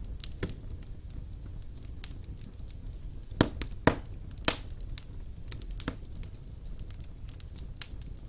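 Wood fire burning in a fireplace: a steady low rumble of flames with scattered crackles, and three sharp pops of the logs close together about three and a half to four and a half seconds in.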